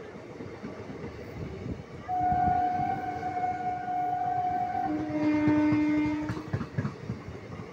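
Passenger coaches of an express train rolling past at speed with steady wheel rumble and clatter. About two seconds in, a locomotive horn sounds one long high tone. Near five seconds it changes to a lower tone, which cuts off a little after six seconds.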